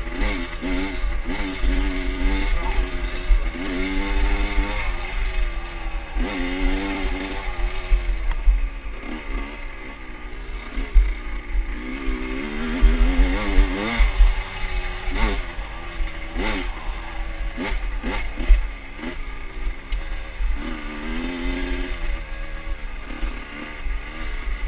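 Motorcycle engine pulling through the gears while riding: its pitch climbs and drops back again and again as the rider accelerates and shifts. Wind buffets the microphone throughout.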